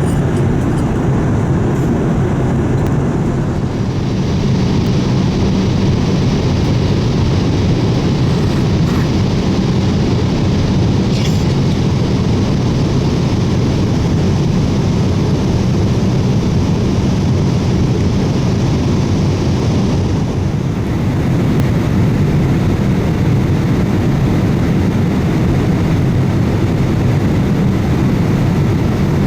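Cabin noise aboard a Boeing 787-8 with GEnx-1B engines: a steady, loud jet rumble with rushing air. A higher hiss comes in about four seconds in and drops away about twenty seconds in.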